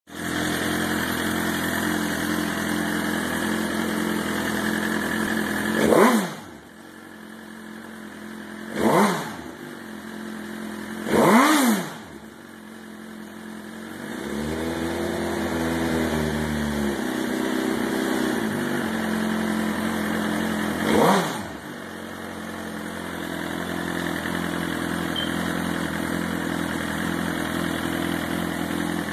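2008 Suzuki GSX-R1000's inline-four engine idling through a dual KR tuned exhaust. It is blipped four times in quick, sharp revs that rise and fall, and once it is held at higher revs for a couple of seconds in the middle. The idle sags briefly after each blip before settling back.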